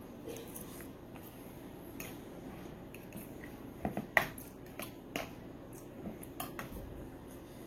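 Scattered light clicks and taps of eating from a bowl, a utensil knocking against the dish, with the sharpest few clustered about four seconds in.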